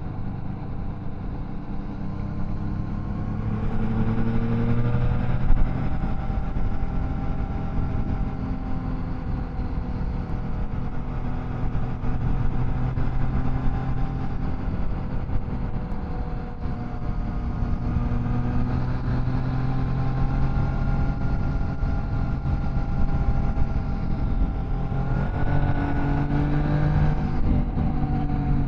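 Triumph Tiger Sport 660's inline three-cylinder engine and exhaust under way, the engine note rising and falling with the throttle. It climbs twice and drops sharply near the end, with a brief thump about five seconds in.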